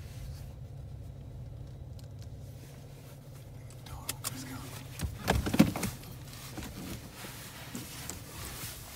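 Car engine idling steadily, heard from inside the cabin as a low hum. A few clicks and knocks sound over it, the loudest about five and a half seconds in.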